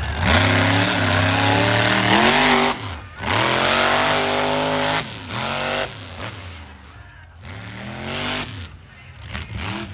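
Monster truck engine revving hard at full throttle in two long bursts, with a brief drop about three seconds in. After about five seconds it falls back to lighter, shorter blips of throttle.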